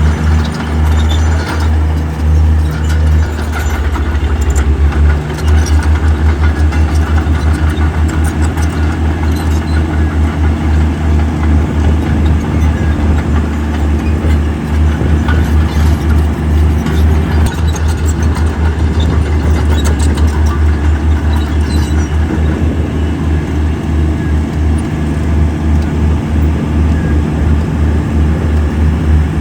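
Heavy earthmoving machine's diesel engine running loud and steady, with a fast, even low throb and scattered clicks and rattles.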